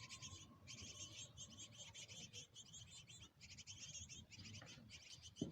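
Small birds twittering in a rapid, high-pitched stream of chirps with brief pauses, and a single soft knock near the end.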